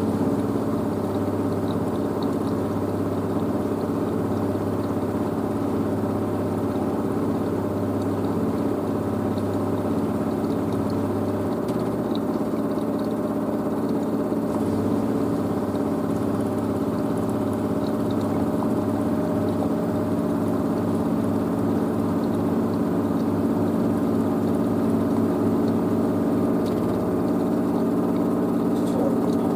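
LG DirectDrive F1496AD washer dryer spinning its load, the direct-drive motor and drum running with a steady hum of several tones. About twelve seconds in, the low drone gives way to a faster pulsing.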